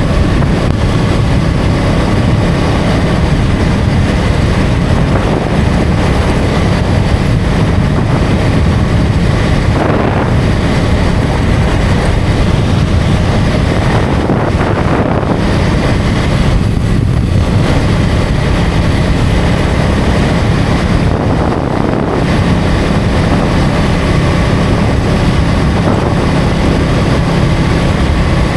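KTM Duke 250 Gen3 single-cylinder engine running steadily while the motorcycle cruises, under a constant rush of wind on the microphone, with a few brief dips in the wind hiss.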